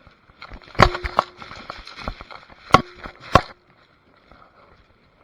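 Airsoft guns firing single shots: four sharp, loud cracks in two pairs about two seconds apart, with lighter clicks and rustling between them.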